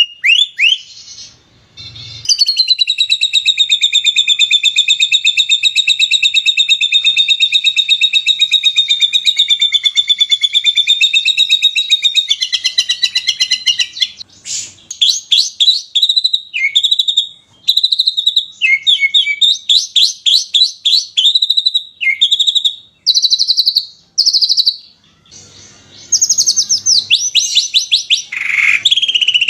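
Recorded songbird song: a loud, very rapid trill that runs unbroken for about twelve seconds, then a string of varied short chirps, trills and whistles with brief pauses between them. This is the dense 'tembakan' (rapid-fire) phrasing used in masteran recordings for training caged songbirds.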